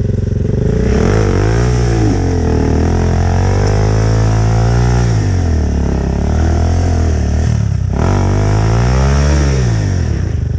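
Dirt bike engine revved hard in repeated surges, its pitch climbing and falling about three times, as it fights its way through slick mud on the trail.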